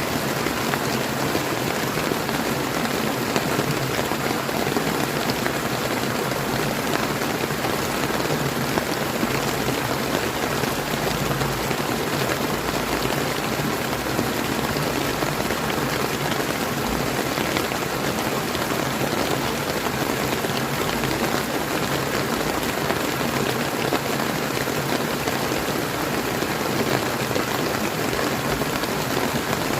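Steady rain falling, with many fine drop impacts, over running river water: an even, unbroken wash of sound.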